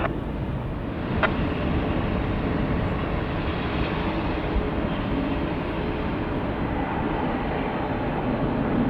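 Steady rumble of jet aircraft engine noise at an airport, with one short click about a second in.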